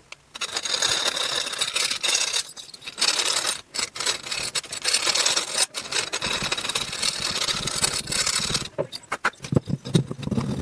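Hand file scraping the port of a two-stroke engine cylinder in long stretches with brief pauses, taking off a burr and scuffing the intake port; the filing stops about nine seconds in.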